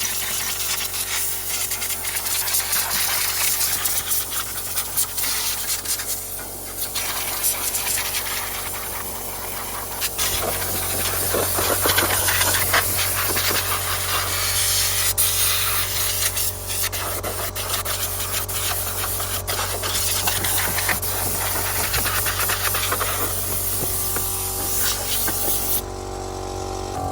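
Steam cleaner jet hissing steadily against an engine bay, over a steady low machine hum. The hiss cuts off about a second before the end, leaving only the hum.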